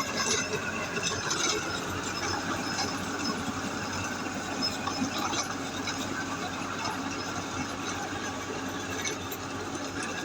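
Farm tractor engine running steadily, with scattered clicks and knocks over the engine noise.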